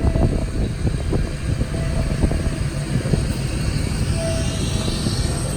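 Low, uneven rumble of wind buffeting the microphone outdoors.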